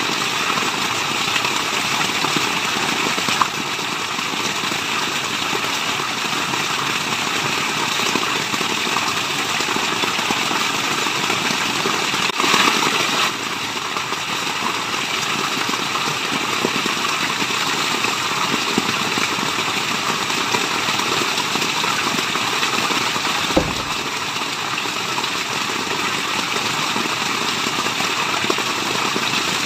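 Steady rushing of falling water, an even hiss spread across the range. It swells louder for about a second around twelve seconds in, and there is a single sharp click a little before two-thirds of the way through.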